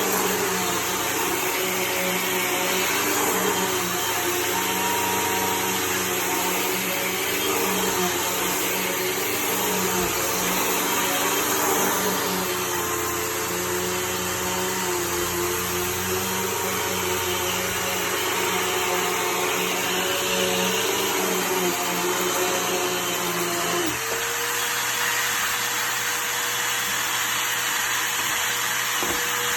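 Hoover vacuum cleaner running steadily, its motor pitch wavering slightly as it works. About three-quarters of the way through the sound changes: the lower hum drops away, leaving a single steady whine over the rush of air.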